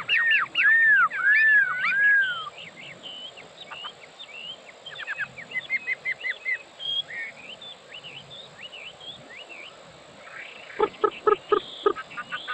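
Chinese hwamei singing a varied song. It opens with a series of loud, arched, slurred whistles, moves to softer scattered chirps and trills, and near the end breaks into a fast run of loud repeated notes.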